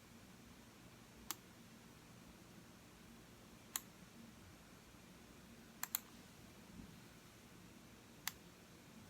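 Computer mouse button clicking: single clicks every two to three seconds, with a quick double click about halfway through, against faint room hum.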